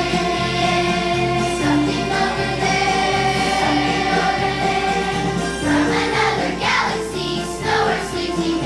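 Children's school choir singing a Christmas song in long held notes over instrumental accompaniment.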